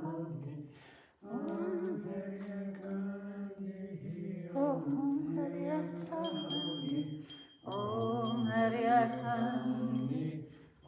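Voices singing a devotional Hindu chant in three long, drawn-out phrases. From about six seconds in, a small hand bell is rung rapidly for a couple of seconds, and once more near the end.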